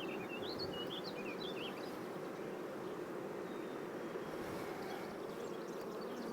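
Honeybee colony buzzing steadily in an open hive, a colony the beekeeper is pretty sure is queenless. A few short bird chirps sound in the first two seconds.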